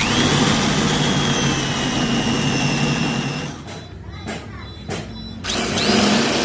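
A power tool's motor running with a loud hiss and a high whine that sags slightly in pitch. It stops about three and a half seconds in, a few sharp knocks follow, and near the end it starts again with a quick rising whine.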